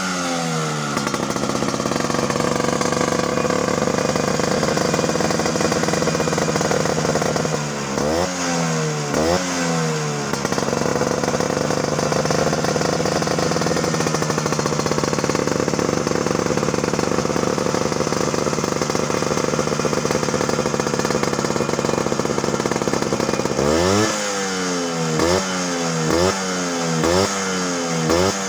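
Vespa scooter engine running through an aftermarket aluminium silencer with a stainless tip, held at a steady speed and blipped with the throttle. It gets a few quick revs about a third of the way in, then is held steady again, and near the end gets a run of short, rapid throttle blips.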